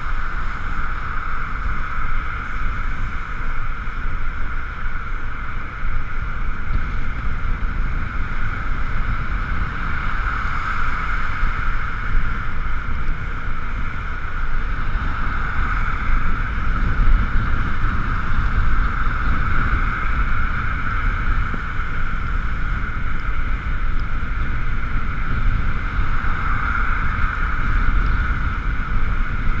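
Ekoway ML5000 electric scooter riding at a steady speed, its electric motor giving a constant high whine over a heavy wind rumble on the helmet-mounted camera's microphone.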